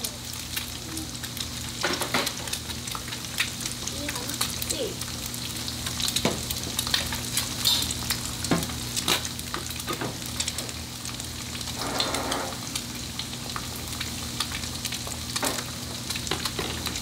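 Burger food frying on a hot griddle with a steady sizzle, punctuated by frequent sharp clicks and scrapes of a metal utensil working the food.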